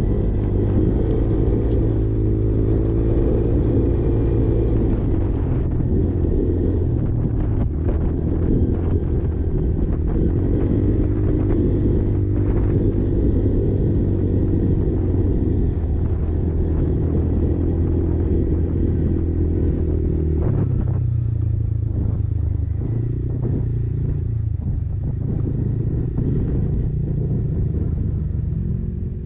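Quad engine running steadily, a low drone whose pitch wavers slightly. About two-thirds of the way through, the tone changes and turns rougher.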